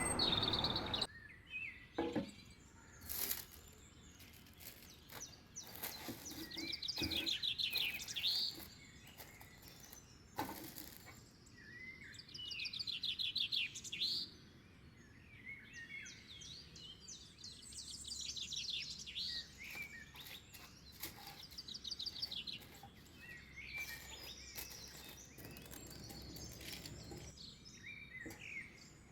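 Birds singing outdoors, repeated high trilling phrases every few seconds, with a few sharp knocks and clicks in between.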